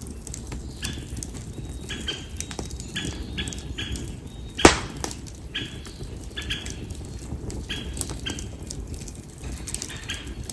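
Konara oak firewood burning in an open fire: a steady low rush of flame with frequent sharp crackles and one loud pop about halfway through.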